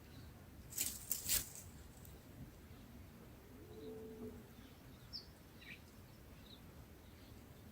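Birds around a nest: a few quick sharp rustles or flaps about a second in, a low soft coo-like call near the middle, and scattered short high chirps.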